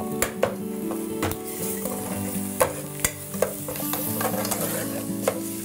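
Chopped onions and spices sizzling in hot oil in an enamel pot while a spoon stirs them. The spoon knocks against the pot about seven times, in sharp clicks.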